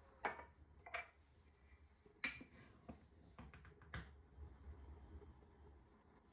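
Dishes and cutlery being handled: several faint, separate clinks and knocks, the sharpest a little over two seconds in, with a quick cluster just after it.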